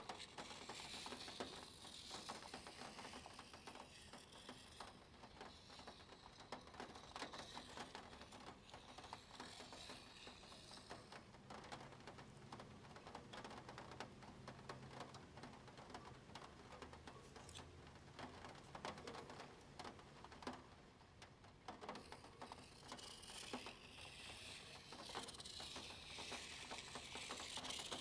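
Quiet drawing with a plastic Spirograph set: a pen scratching on paper and a plastic gear wheel ticking, with many small irregular clicks and soft swishing strokes at the start and again near the end.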